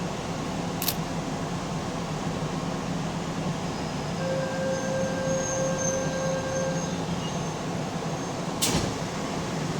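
Keihan electric train running noise heard from inside the car: a steady rumble of wheels and running gear, with a sharp clack about a second in and another near the end, and a thin steady whine for a few seconds in the middle.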